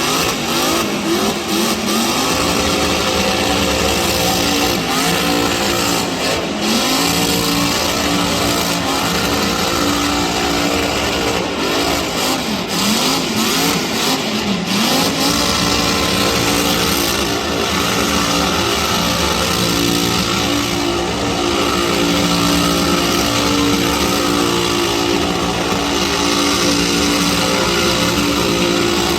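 Car engine held at high revs during a burnout, its pitch wavering up and down with brief dips, over a dense noisy background.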